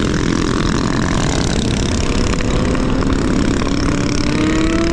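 Wind buffeting a moving rider's microphone, with a faint motor whine that rises slowly in pitch in the second half as the ride picks up speed.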